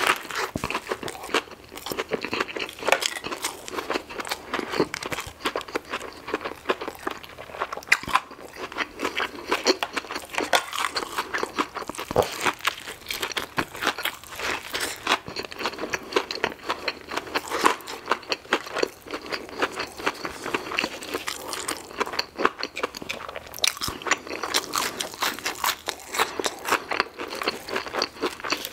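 Close-up eating sounds of a person biting and chewing a Chick-fil-A Spicy Deluxe fried chicken sandwich. The crispy breading crunches in a dense, irregular run of small crackles.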